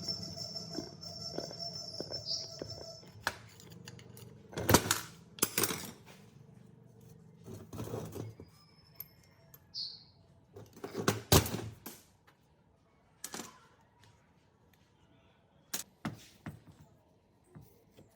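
Scattered knocks, clicks and clinks of parts being handled, with a steady machine hum that stops about two seconds in.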